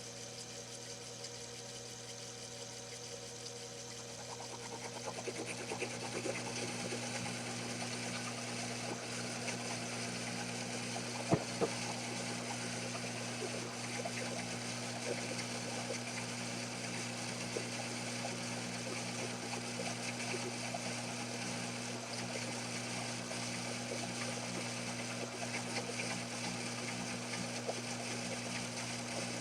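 Small lathe running under power feed, the carriage travelling toward the headstock: a steady motor hum that gets noisier from about five seconds in, with a single click about eleven seconds in.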